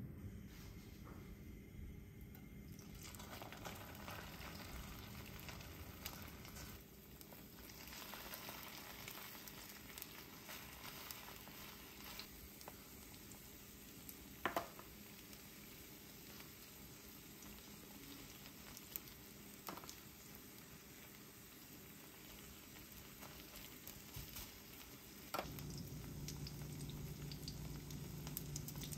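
Green garlic stalks frying quietly in oil in a non-stick frying pan, a faint steady sizzle with a few small ticks and pops. Near the end a low steady hum joins it.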